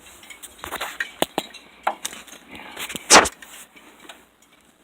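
Light clinks and knocks, with one louder knock about three seconds in.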